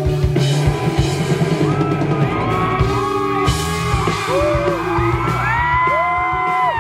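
Live rock band playing, with drum kit and bass guitar under high notes that bend and slide in pitch from about halfway in.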